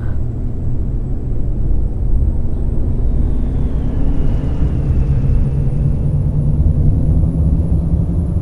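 Scania K420 double-decker coach's engine running loudly under way, its pitch rising gradually through the middle as it gathers speed.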